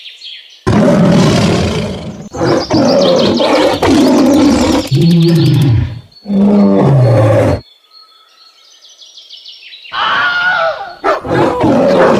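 A series of loud animal calls, each starting and stopping abruptly, with bird chirping in a quieter stretch in the middle.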